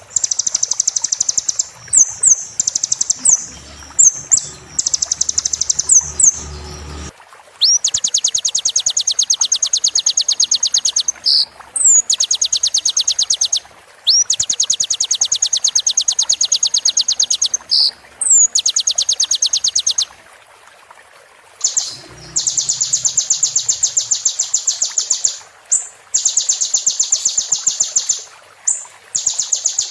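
Sunbird (kolibri) song: short sharp upward-sliding notes and very fast, high, buzzy trills held for several seconds at a time, repeated with brief pauses.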